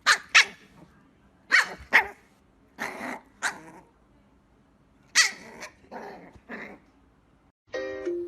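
Dog barking: about nine sharp, loud barks in clusters of two or three, with pauses between them. Some barks have a growly edge.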